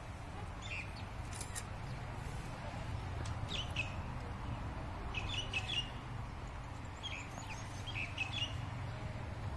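Small birds chirping, short high chirps coming in little clusters several times, over a steady low background hum.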